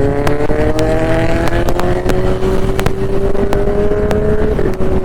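Motorcycle engine pulling under steady acceleration, its pitch climbing slowly for about four seconds and then easing off near the end, over a low rumble with scattered sharp ticks.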